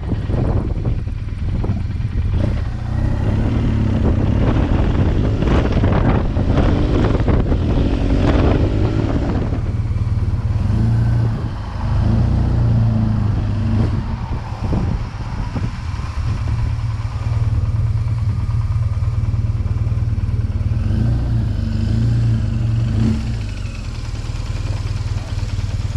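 BMW R 1200 GS boxer-twin engine with an aftermarket SC-Project exhaust, running under way on the road. The pitch rises a few seconds in, and the level dips briefly about eleven and fourteen seconds in.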